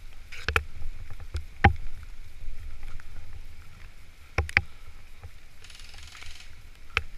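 Scattered single airsoft gunshots: about five sharp pops, two in quick succession near the middle, over a steady low rumble.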